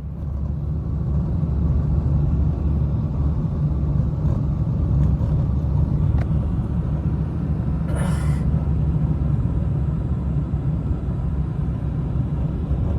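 Blizzard wind buffeting the microphone: a low, steady rumble, with a brief hiss about eight seconds in.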